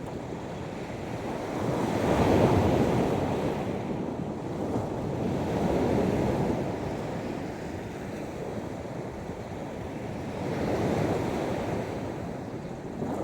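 Sea waves breaking and washing up on a sandy beach: three swells of surf a few seconds apart over a steady wash of water.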